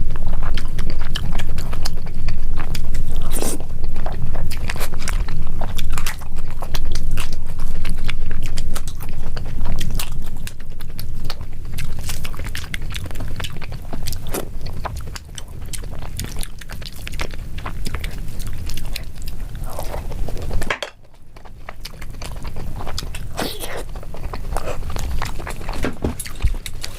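Close-miked eating: a person chewing and biting mouthfuls of fried rice and kofta, with irregular wet clicks and crunches over a low rumble. The sound drops away briefly about three quarters of the way through, then the chewing goes on more quietly.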